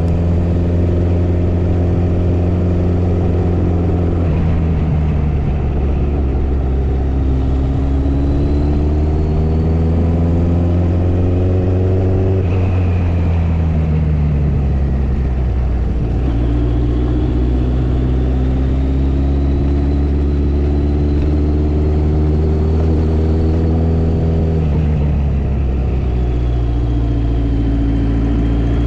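Motorcycle engine running on the road, its pitch rising and falling several times as the bike speeds up and slows, with light wind noise.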